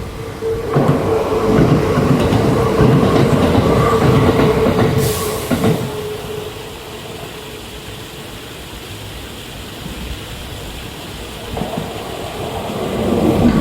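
Kintetsu electric train passing over rail joints: wheels clacking over the joints under a steady hum, loudest in the first six seconds, then dropping away. Near the end the sound builds again as more of the train comes through.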